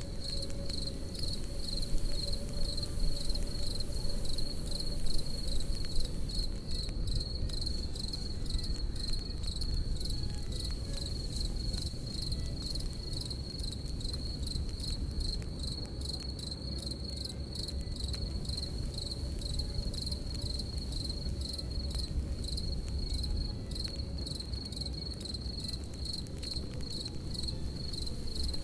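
Crickets chirping in a steady, rapid pulse over a crackling campfire: sharp pops and ticks of burning wood over a low, steady rush of the fire.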